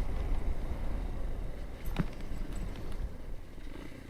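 Motorcycle ride heard from the rider's camera: wind buffeting the microphone over a low engine rumble, easing off toward the end, with one sharp click about two seconds in.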